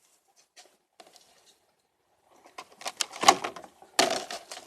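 A scatter of faint clicks, then a quick run of knocks and clicks, with two louder strikes near the end, in a small room.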